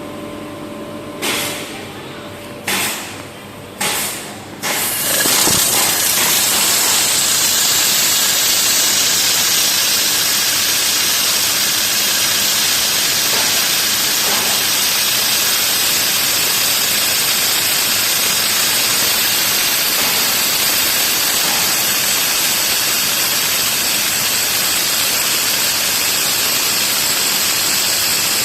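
Handheld fiber laser welder hissing: three short bursts in the first few seconds, then a steady loud hiss from about five seconds in.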